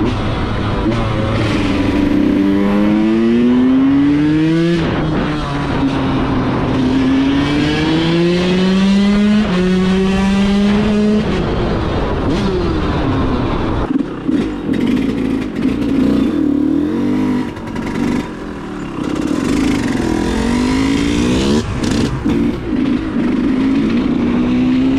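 Yamaha YZ125 single-cylinder two-stroke motocross engine at full throttle. Its pitch climbs and then drops back several times in the first half as the gears change, and the second half is choppier, with the throttle cut and opened again before another climb.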